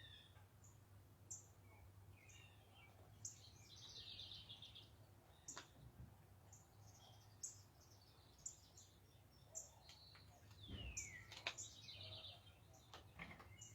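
Faint backyard birdsong from several songbirds: short high chips, quick trills, and a few falling whistled notes, scattered throughout.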